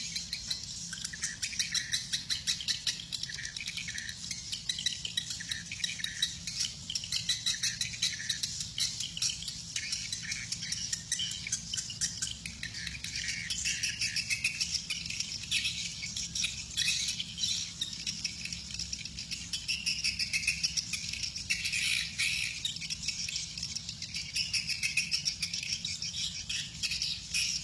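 A large flock of swiftlets twittering continuously, many high, fast chirping calls overlapping, over a faint low steady rumble.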